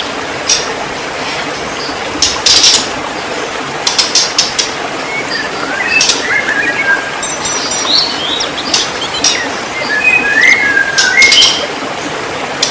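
White-rumped shama singing: short clear whistled phrases mixed with sharp, clicking rattles, over a steady background hiss.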